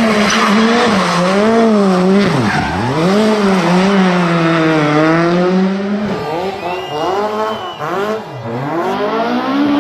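Rally car engine revving hard, its pitch rising and falling over and over as the driver works the throttle through the corners, with two deep drops in revs about two and a half and eight seconds in, over a constant rush of tyre and road noise.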